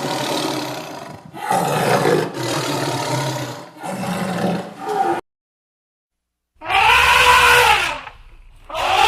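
Animal calls: three rough, noisy calls in the first five seconds, then a break of complete silence, then two calls that rise and fall in pitch.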